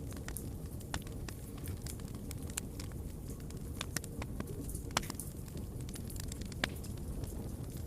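Wood fire burning in a fireplace: a steady low rumble with frequent sharp crackles and pops, a couple of them louder past the middle.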